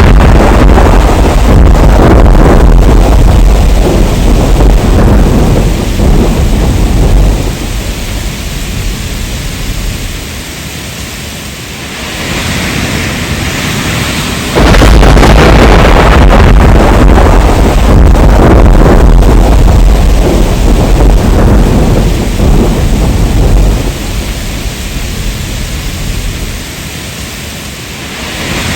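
Heavy rain with rolling thunder. A long, deep rumble of thunder over the rain eases after several seconds to steady rain hiss, then a second loud thunder roll breaks in suddenly about halfway through and dies down again near the end.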